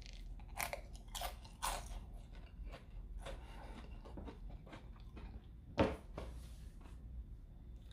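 Crunching bites and chewing of a crispy, flaky fried pizza crust. Several loud crunches come close together in the first two seconds, then softer chewing, with one louder, sharper crunch about six seconds in.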